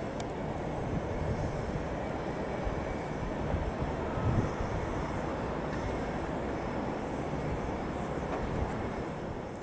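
A train running through the station, a steady rumbling rush of noise that holds level with no clear rise or fall.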